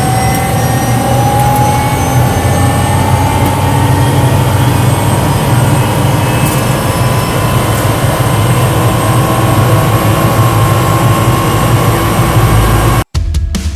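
MD500 helicopter's Allison 250 turboshaft engine running up just after start: a steady low drone under a high turbine whine that slowly rises in pitch. It cuts off abruptly near the end and loud electronic music with a hard beat begins.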